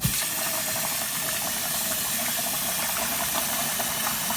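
Tap water running steadily into a jar of wild bird seed being rinsed, a rushing, splashing noise that starts suddenly as the water comes on.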